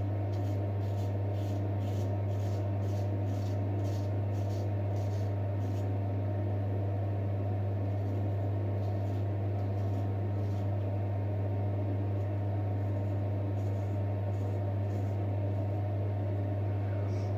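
A J. Nowill & Sons straight razor scraping through stubble in short strokes, about two a second for the first six seconds, then a few more near the end. A steady low hum runs under it and is the loudest sound.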